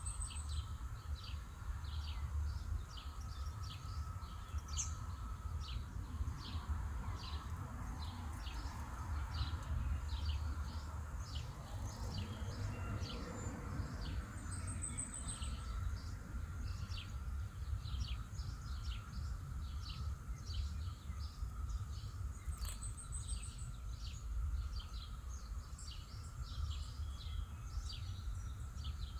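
Outdoor ambience: a small bird chirping over and over, about three short high chirps a second, over a steady low rumble and a faint steady hum.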